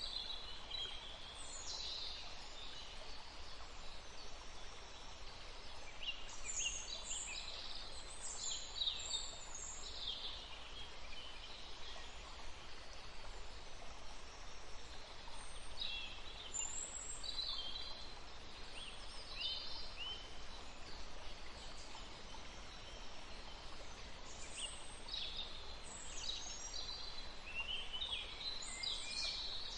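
Songbirds chirping and singing in short bursts of quick high notes, over the steady rush of a forest stream.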